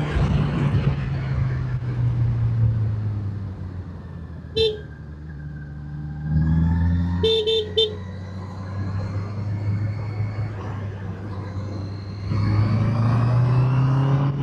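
Motorcycle engine running under way, its pitch rising and falling with the throttle, with a short horn beep about four seconds in and a quick series of beeps a few seconds later.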